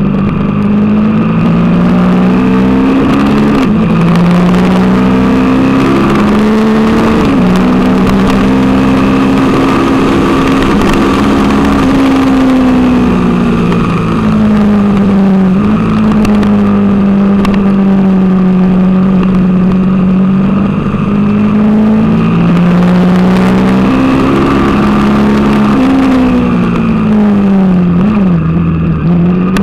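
Onboard sound of a Suzuki TL1000R's 996 cc V-twin engine under hard acceleration on track. Its pitch climbs and drops sharply at each upshift. Near the end it falls with short jumps as the bike slows and shifts down.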